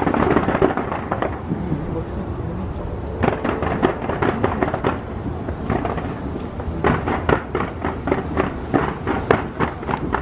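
Fireworks bursting off the Taipei 101 skyscraper, a dense run of overlapping bangs and crackles. The bangs thin out for a moment about two seconds in, then pick up again and come thickest in the second half.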